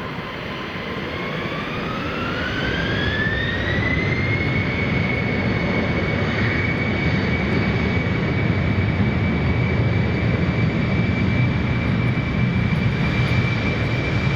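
Embraer 190 twin turbofan engines spooling up to take-off power: a whine rises in pitch over the first few seconds, then holds steady while the engine noise grows louder.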